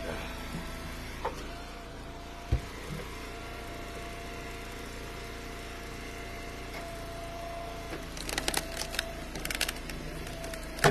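Engine-driven hydraulic wood splitter running steadily with a constant whine, splitting ash rounds. A single heavy thump comes about two and a half seconds in, and a burst of sharp wooden knocks and clatter comes near the end.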